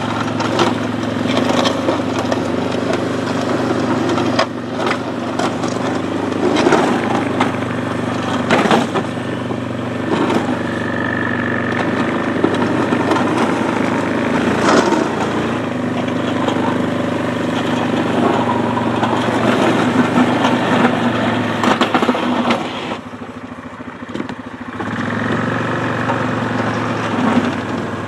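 ATV engine running steadily while plowing slush, with repeated sharp knocks and scrapes over the engine. About three-quarters of the way through, the engine drops quieter for a couple of seconds, then picks up again.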